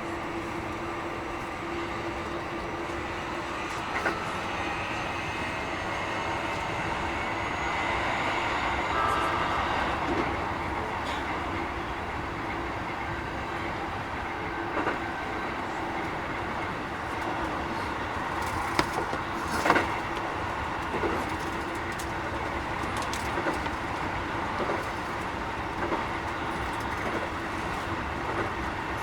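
Keikyu 1000 series electric train with Mitsubishi IGBT VVVF inverter, heard from on board while running: a steady motor hum with whines that glide in pitch during the first third, and wheels clacking over rail joints every few seconds, loudest about two-thirds through. This set runs a little noisier than other trains of the class.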